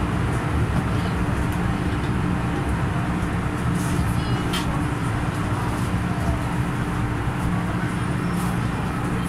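MTR M-Train electric multiple unit running and slowing into a station platform, heard from inside the car: a steady rumble of wheels and running gear with a steady hum. A few faint high squeaks come about four seconds in.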